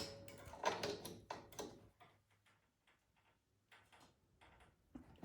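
Light metal clicks and taps of vice grips being clamped onto a snowblower's oil fill tube to hold it while the cap is worked off, a handful in the first two seconds, then only a few faint ticks.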